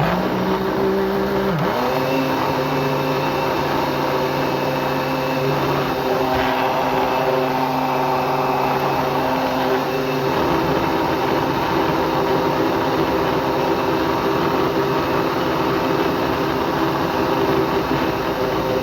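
Electric kitchen blender running continuously, switched on at the start, blending a pudding mixture of eggs, sugar, water and milk powder so the sugar does not settle at the bottom. A steady motor whine whose pitch dips slightly in the first couple of seconds and shifts again about halfway through.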